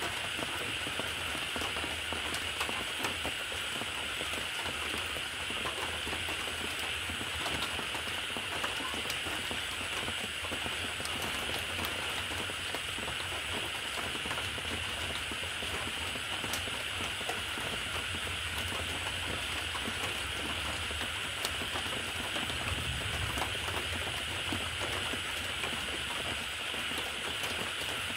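A steady, even hiss with faint scattered ticks through it, unchanging throughout.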